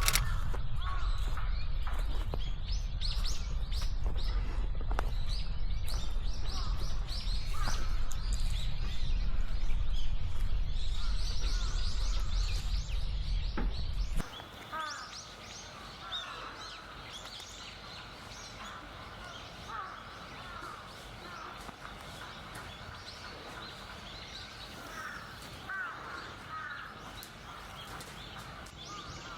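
Wild birds chirping and calling repeatedly, many short high calls. A loud low rumble underlies the first half and cuts off suddenly about halfway through, leaving the bird calls over quieter background.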